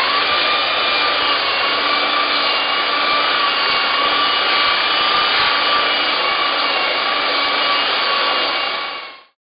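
Handheld power tool spinning up with a quickly rising whine, then running steadily under load with a rough rubbing, abrasive noise, as when stripping an old cast-iron stand. It winds down and stops about nine seconds in.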